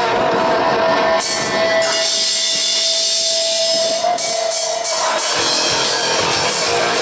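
Live rock-and-roll band playing, with drums and guitar. A single note is held steady for the first four seconds or so.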